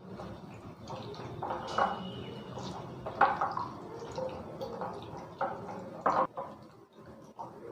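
A hand squishing and turning chicken pieces in a sticky marinade of egg, lemon juice, cornflour and maida in a bowl: irregular wet squelches, with a few sharper ones about two, three and six seconds in.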